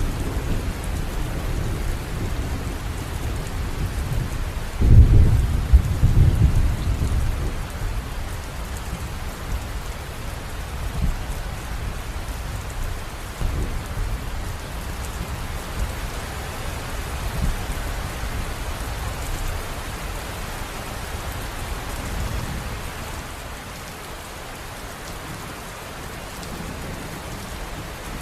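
River water running with a steady rushing noise and a deep rumble underneath, swelling louder for a couple of seconds about five seconds in and easing slightly near the end.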